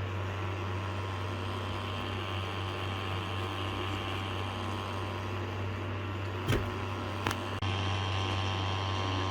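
Steady machine hum, deep with a higher whine on top, with two sharp clicks about two-thirds of the way through and an abrupt change in the hum shortly after.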